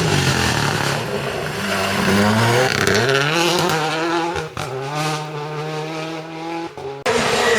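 Rally car engine revving hard and accelerating through the gears, its pitch climbing in steps with each upshift and then holding steady at high revs. Just before the end the sound breaks off suddenly and another engine picks up.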